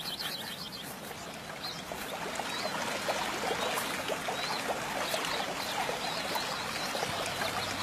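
Running water, like a stream, with scattered short high bird chirps over it; the rushing grows louder about two seconds in.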